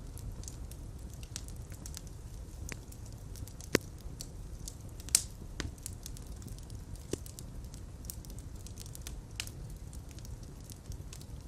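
Wood fire burning in a fireplace: a steady low rumble of flames with scattered crackles and pops, two of them sharp and loud about four and five seconds in.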